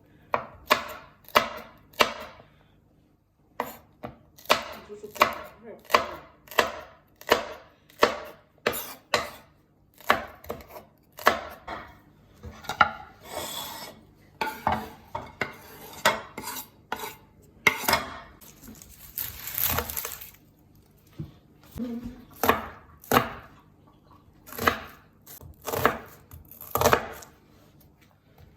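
Kitchen knife chopping vegetables on a cutting board: sharp, irregular strikes, one or two a second, with a longer noisy scrape about twenty seconds in.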